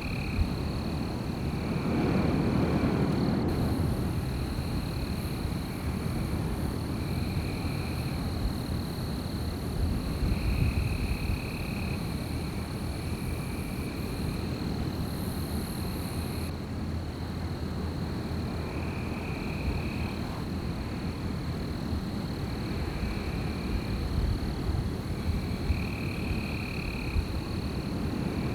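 Night-time wind blowing steadily as a low rushing noise, with a stronger gust about two seconds in. A thin high insect-like drone runs underneath, and short animal calls repeat every second or two.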